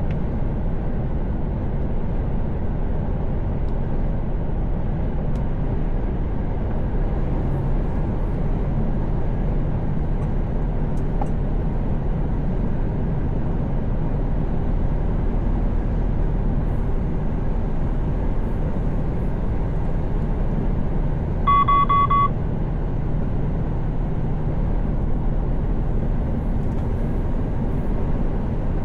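Steady low drone of a Mercedes-Benz Actros truck cruising at motorway speed, heard inside the cab: engine and road noise. About three-quarters of the way through, a short electronic beep sounds for under a second.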